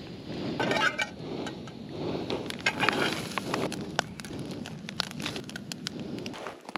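Food frying in a pan: a steady sizzle with frequent sharp crackles and pops.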